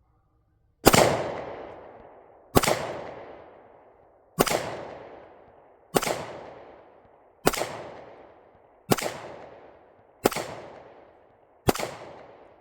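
Eight gunshots fired one after another, about one every second and a half and a little quicker towards the end, each followed by a long echo fading away.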